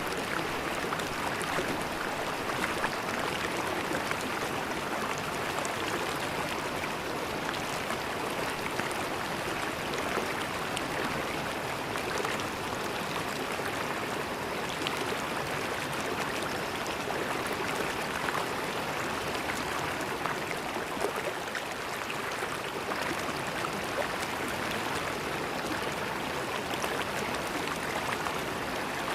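River water flowing and gurgling in a steady rush, with fine splashing flicks throughout.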